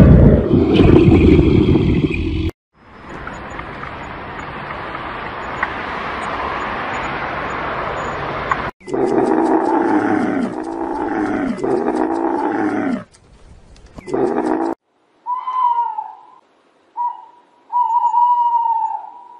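A string of separate animal calls. First a loud, low big-cat growl. Then several seconds of rough hissing noise. About nine seconds in come four drawn-out, bending camel calls, and near the end a burrowing owl gives short, high calls.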